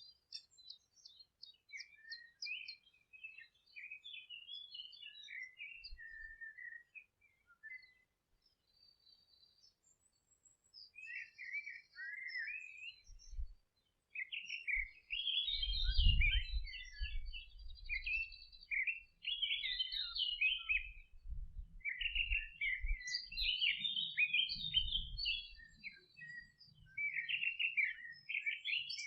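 Several songbirds singing and twittering in quick, overlapping chirping phrases, sparse for a few seconds before growing denser and louder in the second half. A low rumble comes and goes under the song in the middle and later part.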